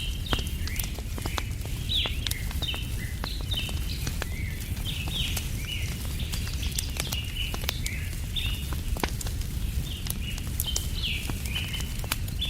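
Small birds chirping continually, with the scattered sharp crackles and pops of a burning wood fire and a steady low rumble beneath.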